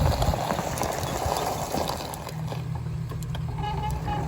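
A small vehicle driving, with rough rolling noise at first, then a steady low motor hum from about halfway in.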